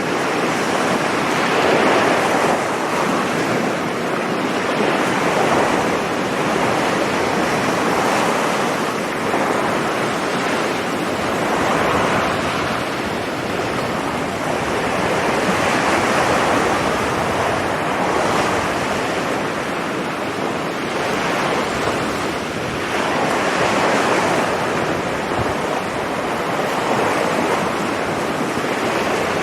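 Sea waves breaking on a beach: a continuous rush of surf that swells and eases every few seconds as successive waves break and wash in.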